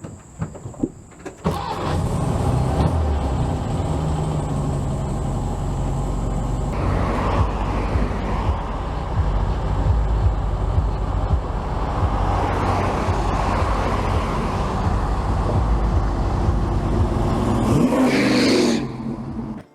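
Lowered 1964 car driving, heard from its front bumper: steady engine and road rumble with wind rushing over the microphone. A few short knocks come in the first second or so, before the rumble starts.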